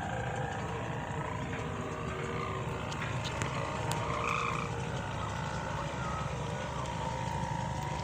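The 2.9 m sendaren (bow hummer) on a pegon kite droning in strong wind: a steady, pitched hum that swells briefly about four seconds in, over wind rumble on the microphone.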